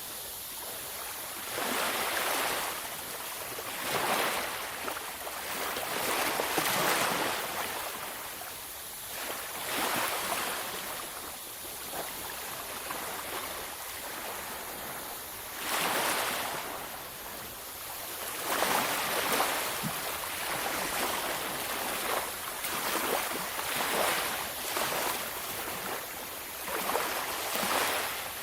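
Waves breaking and washing on a beach, each surge of surf swelling and falling away every few seconds over a steady wash.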